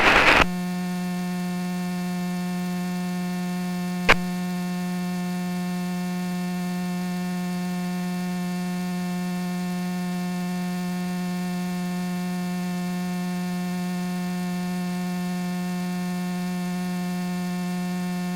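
Steady electrical hum on the aircraft's intercom audio feed between radio calls, with one sharp click about four seconds in.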